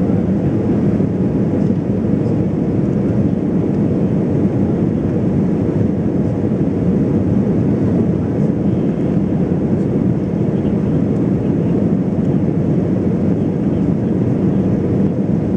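Steady cabin noise of an Embraer 190 jet airliner in flight, heard from inside the cabin: an even drone of engines and airflow, heaviest in the low range, holding level without change.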